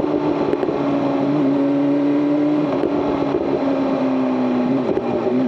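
BMW M 1000 RR's inline-four engine running at fairly steady revs, its pitch easing down in small steps a few times.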